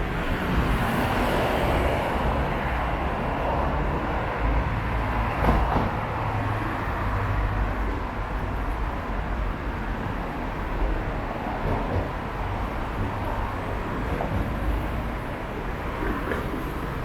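Steady low rumble of passing vehicles, with a brief louder swell about five and a half seconds in.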